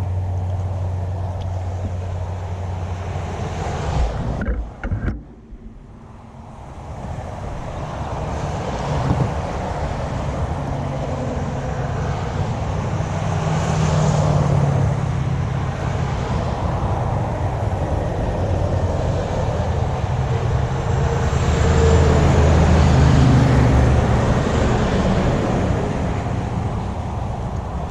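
Steady road traffic noise from motor vehicles, with heavier vehicles swelling past twice, about halfway through and again near the end. The sound briefly drops away about five seconds in, then builds back up.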